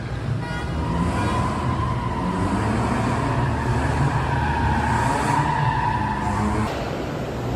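Car engine running at high revs with a sustained high tyre squeal as the car slides, the squeal cutting off suddenly near the end while the engine keeps running.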